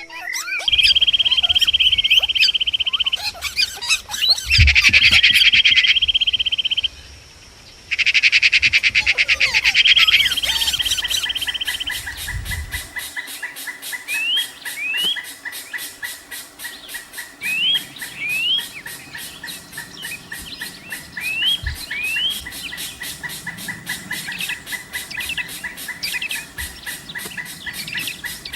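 Wild birds calling: loud, fast trills held for about two seconds at a time in the first ten seconds, then a steady, fast pulsing trill with pairs of short rising chirps over it.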